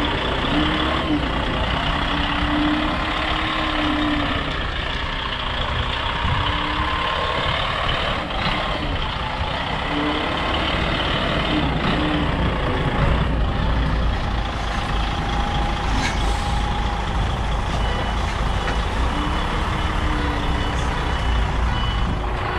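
Container truck's diesel engine running steadily as the rig manoeuvres slowly, with its reversing alarm sounding in short repeated tones.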